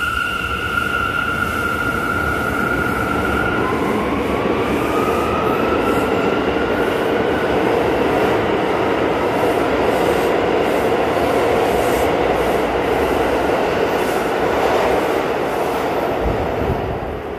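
New York City subway train running along the platform, with a loud steady rumble and high wheel or motor whine; a high whine stops about four seconds in and a tone climbs in pitch just after, and the noise starts to fade near the end.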